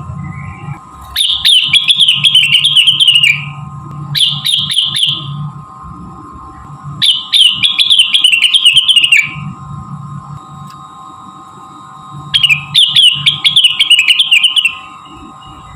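Cucak rengganis song used as a lure recording to set a caged bird singing: four loud phrases of quick, chattering notes, each lasting one to three seconds with short pauses between. A steady faint hum and tone run underneath.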